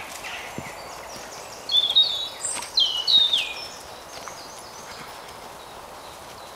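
A songbird sings a short phrase of high notes about two seconds in, closing with a falling note.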